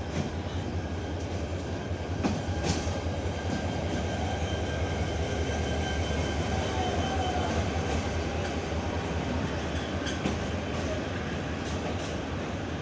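Passenger train running along the rails, heard from on board: a steady low rumble with a few sharp knocks of the wheels over rail joints.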